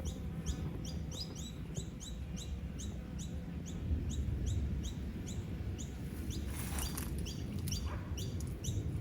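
A bird chirping repeatedly in a steady series of short, high, falling chirps, about three a second, over a low rumble.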